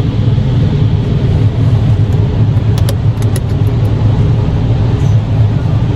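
Automatic drive-through car wash running around the car, heard from inside the cabin: a steady low rumble, with a quick run of sharp ticks about halfway through.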